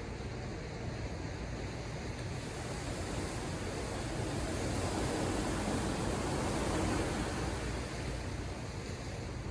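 Ocean surf: the rush of a wave swells from a few seconds in, is loudest around the middle, and eases off near the end, over a steady low rumble of the sea.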